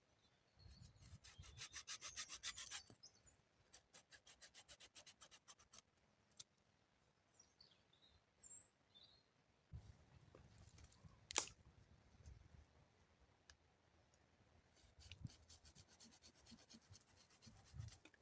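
Faint runs of rapid, evenly spaced scraping strokes, three runs in all, with a few short high bird chirps in between and one sharp click about two-thirds of the way through.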